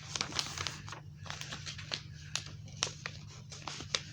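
A sheet of paper being folded and creased by hand: irregular crinkles and sharp rustling clicks, over a steady low hum.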